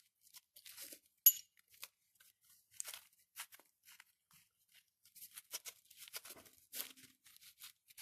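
Small metal carburettor parts being handled and set down: scattered light clicks and scrapes, with one sharp metallic clink about a second in.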